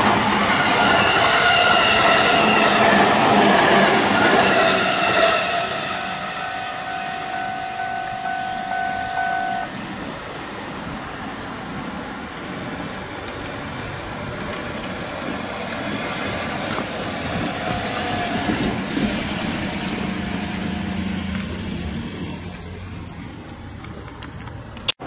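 E257 series electric express train passing at speed, loud and dense with a few held whining tones, dropping away after about five seconds. A steady tone is then held for about four seconds, followed by the rising hiss and rumble of another E257 train approaching along the line, which fades near the end.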